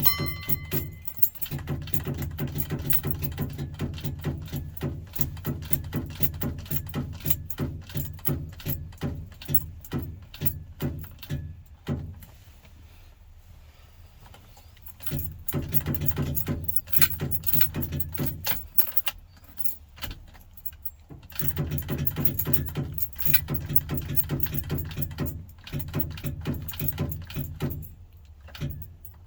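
A car starter chattering with rapid clicking in several long bursts, with short pauses between them, as the key is held in the start position and the engine does not start. The owner takes this for a bad starter.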